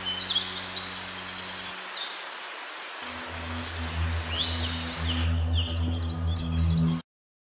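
Songbirds chirping and calling in quick, sliding notes over a low sustained musical drone. About three seconds in, a louder, denser run of sharp chirps begins, and the sound cuts off abruptly near the end.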